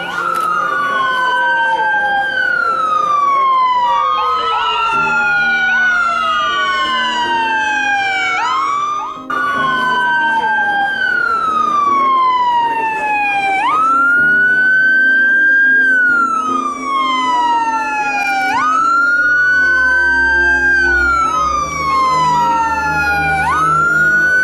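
Two or more emergency-vehicle sirens wailing at once, their overlapping rising and falling cycles each lasting about four seconds. A low steady hum underneath grows louder near the end.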